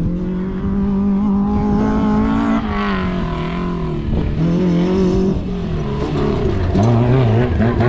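Off-road race vehicle's engine revving hard on the track, its pitch dipping and climbing again several times with throttle and gear changes.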